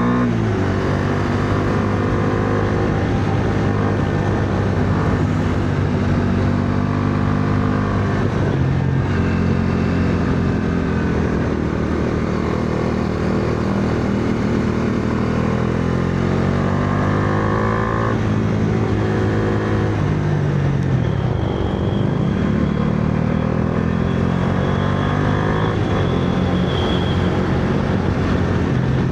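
Bajaj Dominar 400's single-cylinder engine being ridden hard through curves, the revs repeatedly climbing under throttle and dropping off between bends and gear changes.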